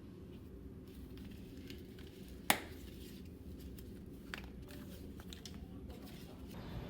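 Quiet room tone with a steady low hum, broken by one sharp tap about two and a half seconds in and a few faint clicks later on, like small objects being handled.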